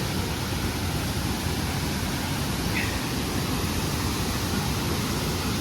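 Waterfall rushing steadily, an even unbroken roar of falling water, with a brief high chirp near the middle.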